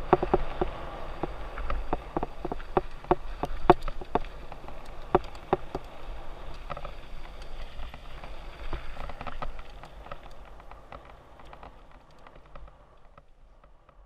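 Mountain bike rolling over a dirt trail: gravel crunching under the tyres and the bike rattling over bumps, with wind rumble on the mount. It thins out and fades as the bike slows, going nearly quiet near the end.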